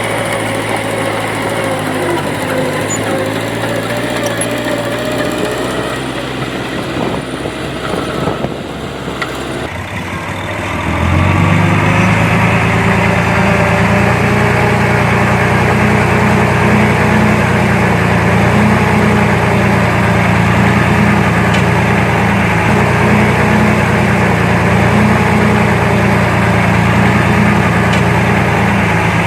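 Diesel engine of heavy earthmoving machinery running. About ten seconds in it gets louder and settles into a deeper, steadier note, as if put under load or brought closer.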